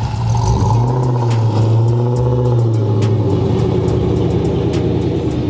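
Chrysler 300 SRT8's V8 engine running with a steady low exhaust drone; its pitch rises and falls once in the first half.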